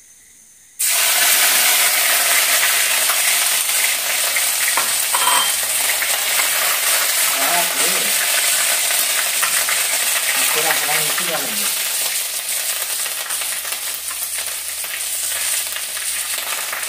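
Ginger-garlic paste hitting hot oil in a steel kadai and sizzling loudly, starting suddenly about a second in and running on as a steady hiss that eases a little toward the end.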